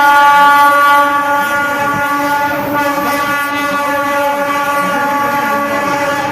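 Horn of a WAG-5 electric locomotive sounding one long steady note, louder in the first second, as the train runs through.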